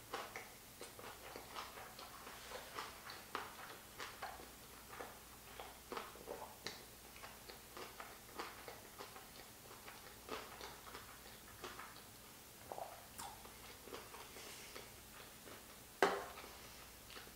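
A person chewing a mouthful of sushi roll with crunchy carrot: soft, irregular crunching and wet mouth clicks, with one sharper click near the end.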